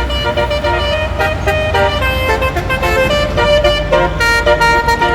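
A quick melodic tune of horn-like notes that change pitch every fraction of a second, over a low steady rumble.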